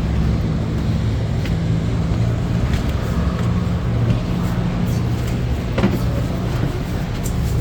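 A steady low mechanical hum, with a few faint clicks and a single knock about six seconds in.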